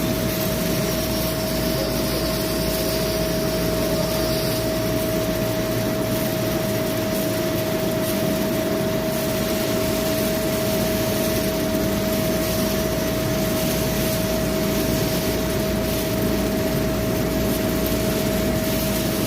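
CNC lathe running through a facing operation, a steady machine noise with one constant whine held throughout.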